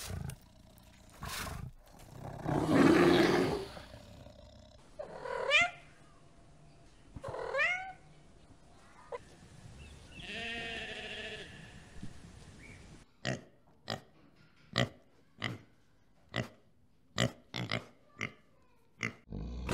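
A sequence of farm and wild animal sounds. A loud, rough growl from a black bear comes first. Sheep and lambs bleat three times next, two falling calls and then a longer wavering one. A pig makes short grunts, about one to two a second, near the end.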